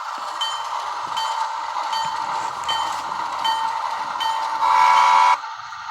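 Bachmann Sound Value DCC diesel locomotive's onboard sound: the electronic diesel engine running, with its bell ringing about every three-quarters of a second. Near the end a short horn blast sounds, then all of the sound cuts off suddenly as the locomotive stalls and loses power on a dirty spot of track.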